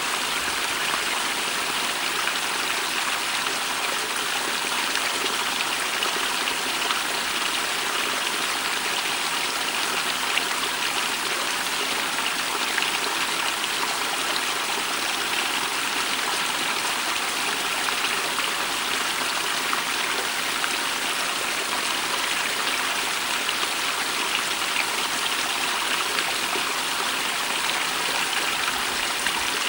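A small stream running through a rift: a steady, even rush of water.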